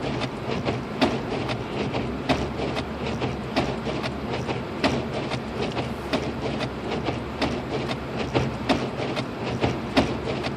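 Cabin noise of a Lexus IS250 AWD driving on a snow-covered road: a steady low hum from the engine and tyres, with frequent irregular clicks and knocks.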